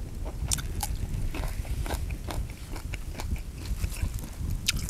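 Close-up chewing of a mouthful of fish laab, with wet smacking and many small irregular clicks from the mouth.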